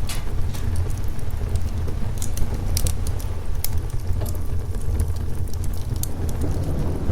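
Wood fire crackling with scattered sharp pops over a steady low rumble and rain: a thunderstorm-and-fireplace ambience.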